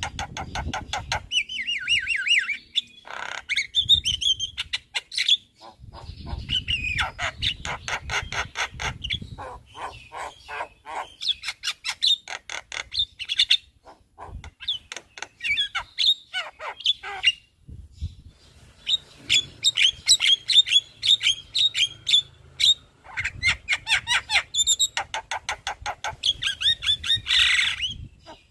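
Javan myna singing without letup: fast runs of short, repeated chattering and squawking notes that keep changing pattern, with short pauses between phrases, delivering a varied repertoire of learned song.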